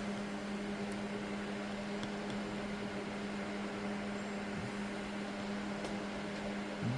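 Steady machine hum at one constant low pitch over a faint hiss, with a couple of faint ticks.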